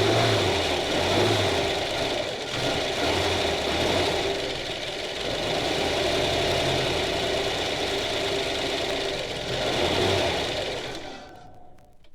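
An engine running steadily with a throbbing low end, fading out near the end.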